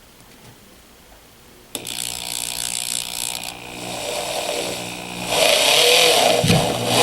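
Power screwdriver running as it drives a thermostat mounting screw, starting suddenly about two seconds in and growing louder from about five seconds in.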